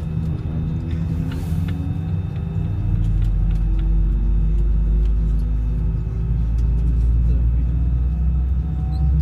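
Airbus A319 cabin with the low rumble of the aircraft's CFM56 jet engine, and a set of faint tones slowly rising in pitch as the engine spools up during start. The rumble grows louder about three seconds in. A few small clicks sound in the cabin.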